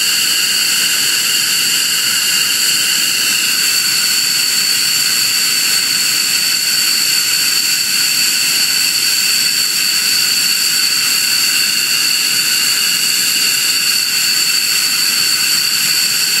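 F-15 fighter jet's engines running with a loud, steady, high-pitched whistling whine over a constant roar: the screech likened to a fork in a garbage disposal. One of the whistling tones drops slightly in pitch about three and a half seconds in.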